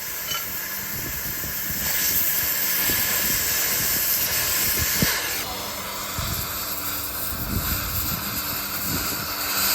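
Steady loud hissing with a few light knocks; its tone changes about five seconds in.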